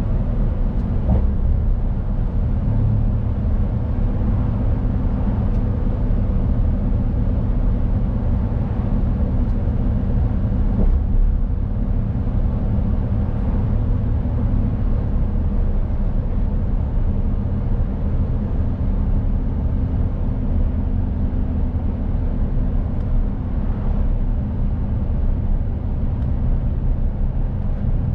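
Mercedes-Benz Actros truck's diesel engine running steadily under way, a low drone over road and tyre noise.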